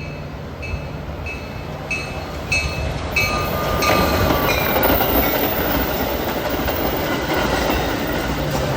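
Train passing close by: rolling wheel and rail noise builds about three seconds in and stays loud. Underneath the first few seconds a bell rings at a steady beat of about one and a half strokes a second.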